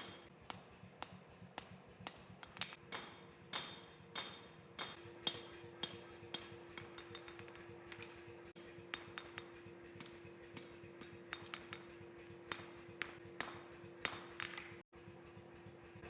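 Light hammer strikes on metal, irregular and a few a second at first, then sparser, each with a short metallic ring, over a faint steady hum.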